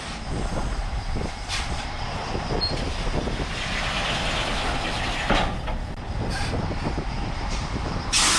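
Semi-truck at low speed, diesel engine running with the cab and rig rattling and clanking. A few short hissy bursts cut through, about one and a half, five and eight seconds in, the last one the loudest.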